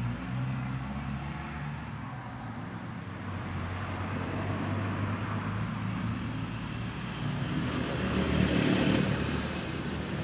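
Road traffic: a motor vehicle's engine running with a low hum, growing louder about eight seconds in.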